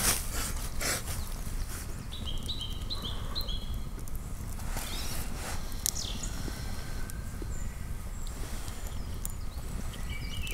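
Campfire crackling with a few sharp snaps over a steady low rumble. About two seconds in, a quick run of short high chirps steps up in pitch.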